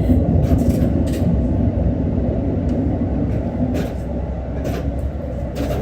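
Diesel railcar running along the track, heard from inside the car: a steady low rumble with a few brief sharp clicks, easing slightly in loudness toward the end.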